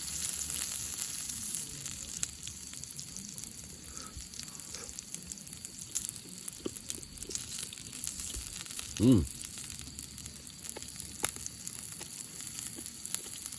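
Chicken cartilage yakitori sizzling over a campfire: a steady hiss with many small crackles and pops. A short voiced murmur comes about nine seconds in.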